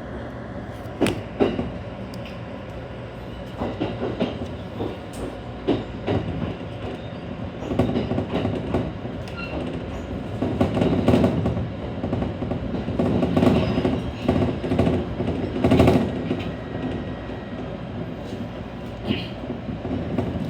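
ET127 series electric train running, heard from on board: a steady rumble with irregular clacks and knocks from the wheels on the track, louder and busier in the middle stretch.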